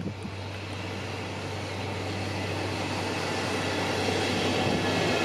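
EF65 electric locomotive and Shiki 850 heavy-load wagon rolling past on the track: a steady low hum under a rushing noise of wheels on rail that grows gradually louder as the train comes by.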